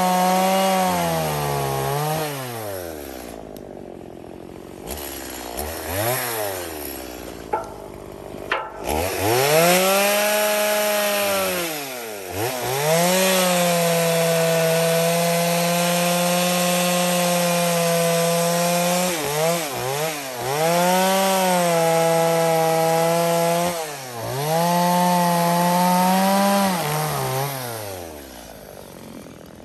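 Two-stroke chainsaw cutting branches off a cedar log, revving to full throttle for a few seconds at a time and dropping back to idle between cuts, about six times; the longest cut is held for about six seconds near the middle.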